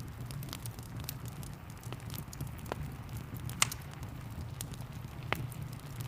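Wood fire crackling, with scattered sharp pops over a steady low rumble and a light hiss of rain. The loudest pop comes a little past halfway, and another near the end.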